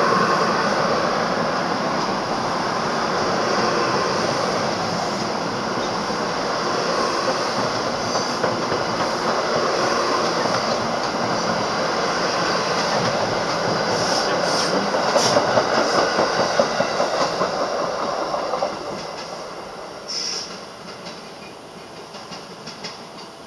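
NJ Transit commuter train's passenger coaches rolling past with a steady rumble and hiss of wheels on rail. A run of sharp wheel clicks comes as the last cars go by, and the sound then falls away about three-quarters of the way through as the train recedes.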